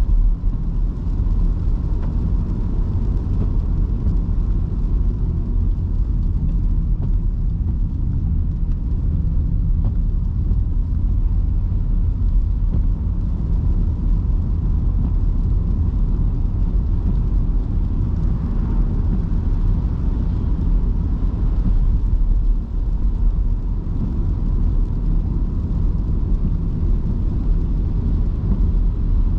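Electric car driving through city streets in heavy rain: a steady low rumble of road and tyre noise on the wet road, with a faint steady whine.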